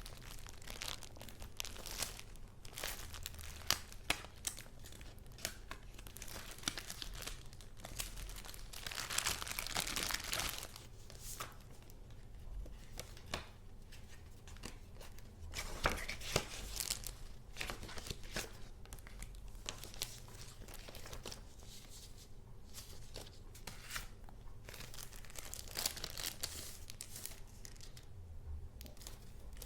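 Paper and paper goods being handled close up: irregular crinkling, rustling and tearing-like rips with small taps and clicks, and a longer, louder rasping stretch about nine seconds in.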